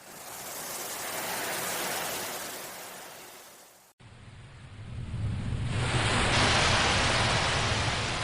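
Ocean waves washing in, two swells: the first rises and fades away, then after an abrupt cut a heavier, deeper wash builds and peaks a few seconds before the end.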